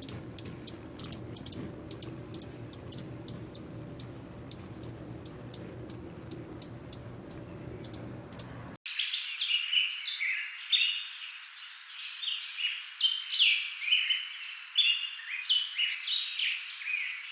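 A run of sharp, irregular clicks, about two or three a second, over a low hum. After a cut about 9 seconds in comes a small bird's quick, busy chirping.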